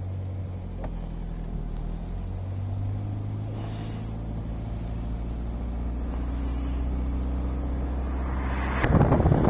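An engine running steadily with a low hum. Near the end it is swamped by loud wind buffeting the microphone.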